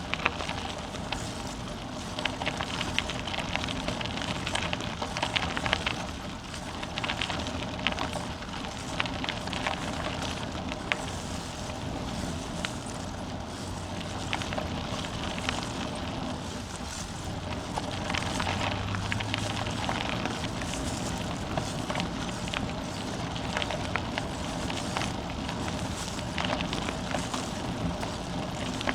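Bicycle rolling along a forest trail: steady tyre noise with a continuous crackle of small clicks and rattles from the trail surface.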